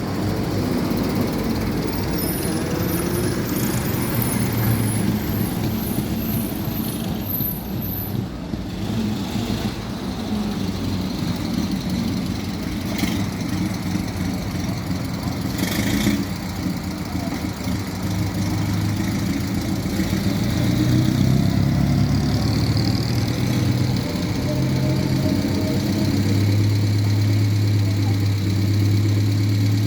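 A motor vehicle engine running at low revs amid street traffic, its steady low hum growing louder in the second half. Two short sharp knocks come around the middle.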